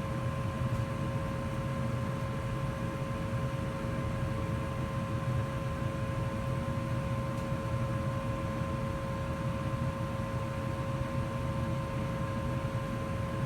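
2004 Goodman gas furnace running steadily in heat mode: an even rush of air with a low rumble and a constant high-pitched hum.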